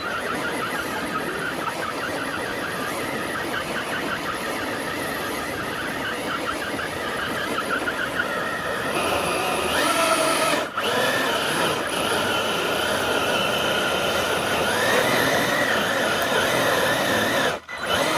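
Small RC crawler truck's electric motor and gears whining under load as it drags a weighted sled, with the sled scraping along the ground. The whine shifts in pitch, climbs about nine seconds in, and cuts out briefly twice.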